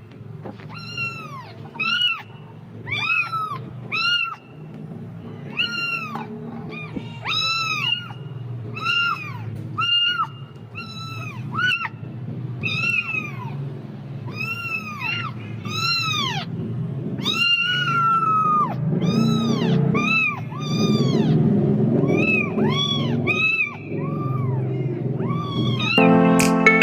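A kitten meowing over and over, high-pitched mews that rise and fall, about one a second, over steady low background noise. Piano music comes in near the end.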